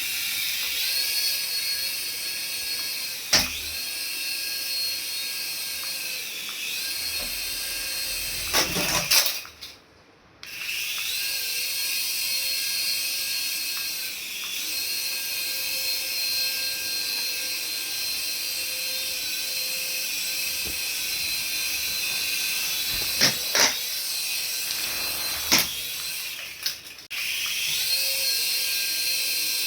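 Small electric motor of a remote-control toy, running with a steady high-pitched whine whose pitch dips and recovers several times, with a few sharp clicks. The sound cuts out briefly about ten seconds in.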